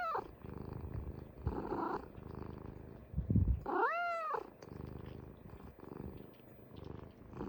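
A pet cat purring in a contented mood, with one short meow rising and falling in pitch about four seconds in.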